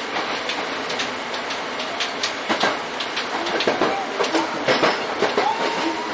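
Electric commuter train heard from the driver's cab, running with its wheels clicking sharply over rail joints and points as it pulls into a station. A thin whine with small rises in pitch comes in about halfway through.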